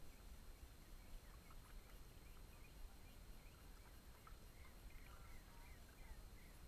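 Near silence: faint, scattered short bird calls over a low rumble.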